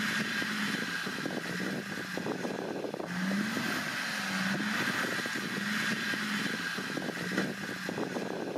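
Off-road 4x4 engine running at low revs, with frequent short knocks and rattles.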